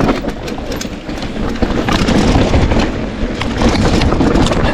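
Wind rumbling on the microphone of a mountain biker's camera, mixed with a rattle of short clicks and knocks from the bike running over a rough downhill trail.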